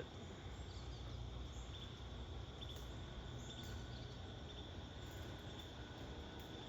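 Steady chorus of insects, a constant high-pitched drone, over a low outdoor rumble.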